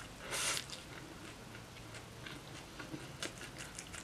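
Eating a wrapped bread roll sandwich: one short, crunchy bite about half a second in, followed by quiet chewing with small scattered clicks.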